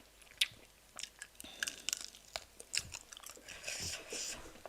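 A person chewing crunchy chicken feet close to the microphone: a run of short, sharp crunches and clicks as the bones and cartilage are bitten through, with a softer hissy stretch near the end.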